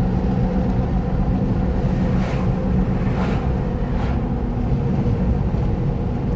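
Pickup truck driving on a road: steady engine and tyre rumble, with a few brief hissing swells about two to four seconds in.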